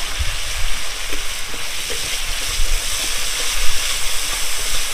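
Ground spice masala frying in hot oil in a metal wok (karai), a steady sizzle as it is stirred with a metal spatula.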